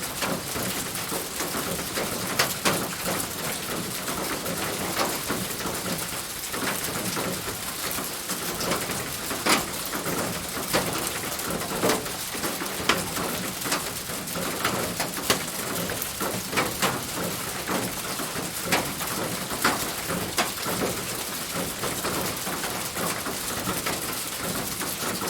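Steady rain falling on a roof: an even hiss with irregular louder drips and taps landing every second or so.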